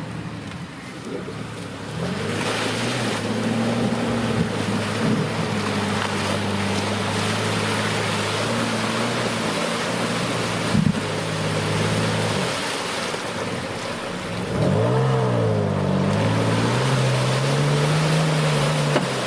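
An off-road SUV's engine pulls steadily under load under a loud rushing hiss of the tyres churning through mud and water. A single thump comes near the middle. About three-quarters of the way in, the revs rise and fall sharply, then settle higher.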